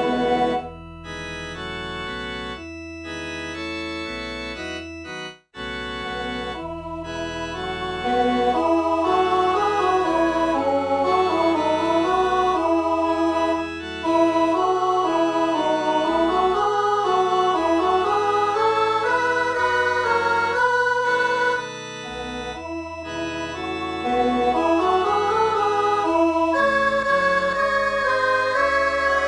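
Electronic organ sound playing a four-part hymn in steady held chords, stepping from chord to chord. It is softer at first, with a brief break about five seconds in, and louder from about eight seconds on.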